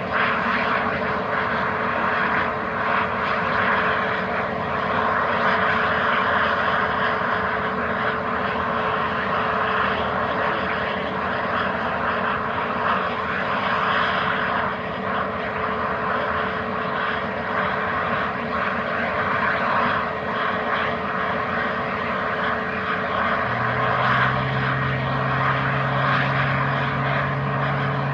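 CFM LEAP-1A jet engines of an Airbus A320neo airliner running steadily: a loud, even rush of noise with a constant whine over it. A second, lower steady hum comes in near the end.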